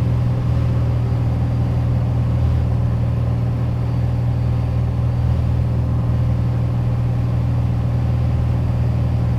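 Piper Dakota's six-cylinder Lycoming O-540 engine and propeller droning steadily, heard inside the cabin, held at one power setting in level flight.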